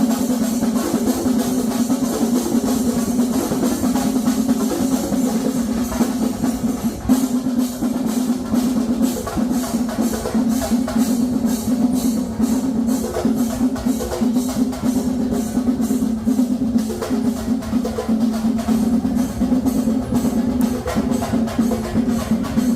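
Drums played in fast, rolling strokes over a steady low held tone, as percussion music; the strokes grow denser and sharper about a third of the way in.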